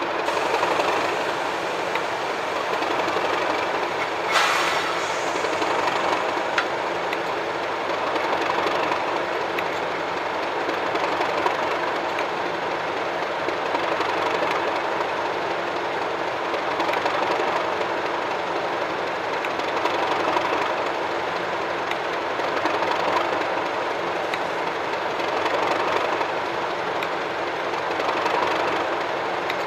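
Diesel locomotive engine running steadily at idle, with a low even drone that swells slightly every few seconds; a single sharp click about four seconds in.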